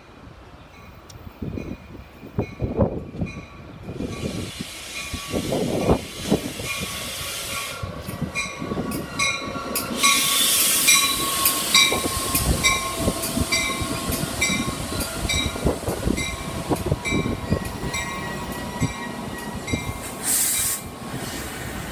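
Metra push-pull commuter train, cab car leading, pulling into the station and slowing along the platform: wheels knocking over the rail joints with brake noise, and a bell ringing at a steady beat. A short burst of air hiss comes near the end.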